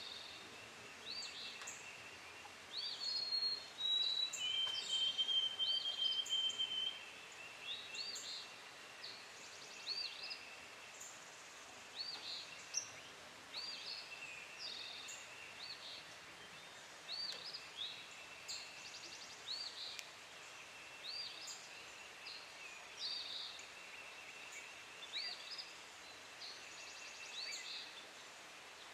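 Wild birds calling and singing: short high chirps repeat over and over, and a clear, steady whistled note stands out for a few seconds early in the stretch.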